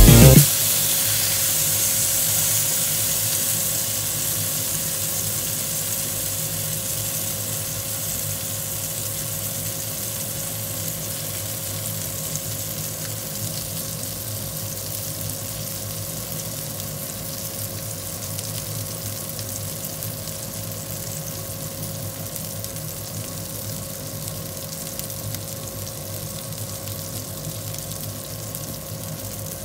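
Hamburg steak patties sizzling in oil in a frying pan, just turned over browned side up. The sizzle is loudest at first and slowly dies down, with a faint steady hum underneath.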